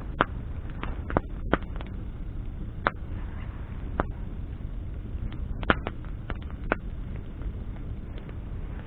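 A bonfire of burning branches crackling: sharp, irregular pops of the wood, about nine in a few seconds, over a steady low rumble of the flames.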